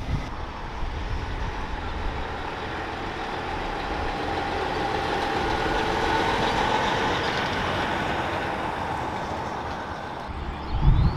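A heavy truck passing by, its engine and tyre noise rising to a peak partway through and then fading away.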